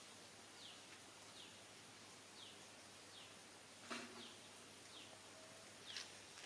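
A bird calling faintly in short falling chirps, one roughly every second. There is a brief sharp click about four seconds in and a smaller one near the end.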